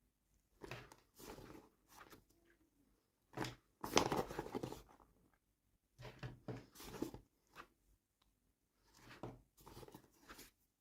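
Toy packaging crinkling and tearing by hand in four short bursts, the loudest about four seconds in.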